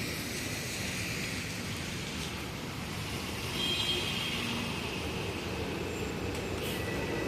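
Steady city street traffic noise, with a faint high-pitched squeal about three and a half seconds in.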